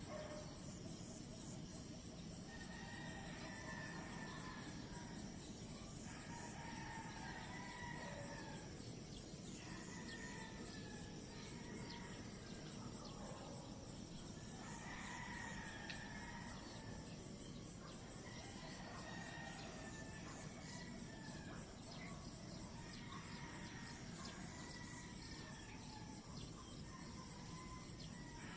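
Repeated drawn-out bird calls, about one every two seconds, over a steady background of insects.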